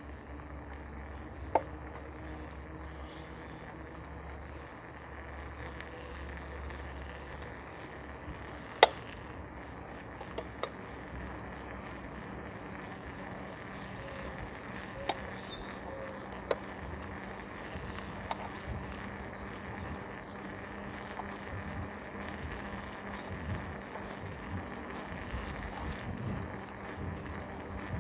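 Bicycle being ridden: a steady rushing noise with a few sharp clicks and rattles, the loudest about nine seconds in.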